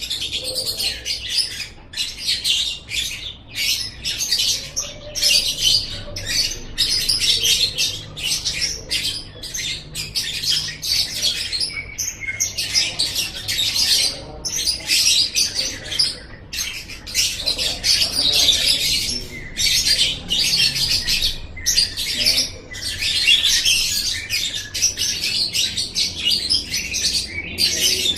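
Lovebird singing a long, fast, high-pitched chattering trill, broken by short pauses every second or two.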